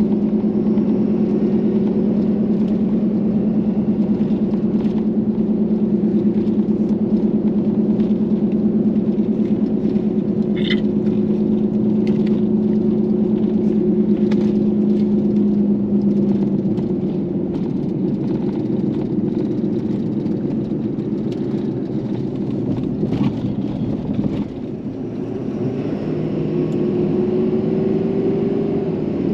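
Tow truck engine heard from inside the cab while driving: a steady drone that eases off about two-thirds of the way through, dips briefly, then picks up again with its pitch rising near the end. A brief high tone sounds once about ten seconds in.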